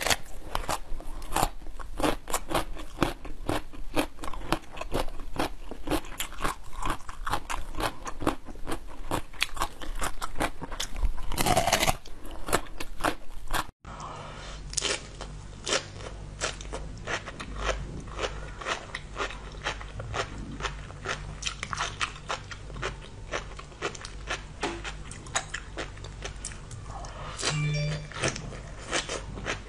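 Close-up eating sounds: crisp crunching bites of a raw watermelon radish, then, after a cut about halfway, sea grapes being chewed, with many small sharp pops and clicks as the beads burst between the teeth.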